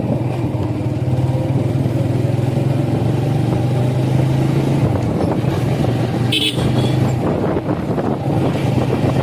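Motorcycle engine running steadily while riding, with a short horn beep about six seconds in.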